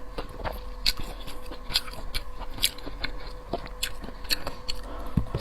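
Close-miked eating of seafood: irregular wet clicks and crunches of biting and chewing, over a faint steady hum.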